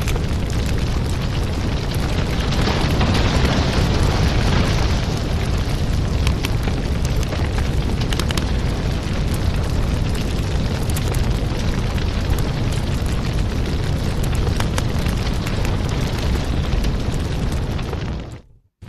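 Wood fire crackling in a fireplace: a steady low roar of flames with many sharp pops and snaps. Near the end the sound fades out briefly and starts again.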